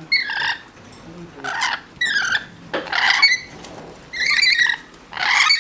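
Bird calling in about six short, high chirping calls, roughly one a second.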